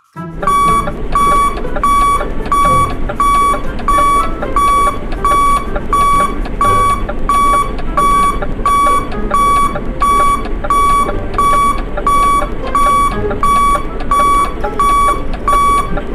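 Electronic beeping at one steady pitch, short beeps repeating evenly at nearly two a second, over a continuous low hum.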